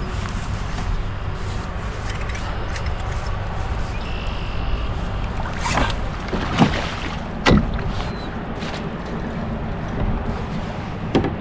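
Steady low rumble on an open-water kayak, with a few sharp splashes or knocks about six to eight seconds in and another near the end, as a hooked bass is fought and brought to the boat.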